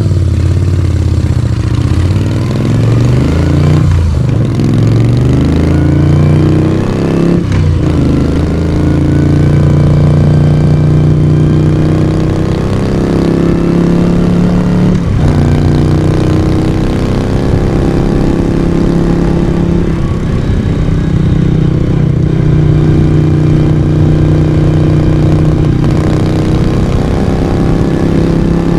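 1982 Moto Guzzi V35's transverse V-twin engine and exhaust running under way. The pitch climbs, with brief breaks about four seconds in, again near eight seconds and at fifteen seconds that fit gear changes, then settles into steadier running.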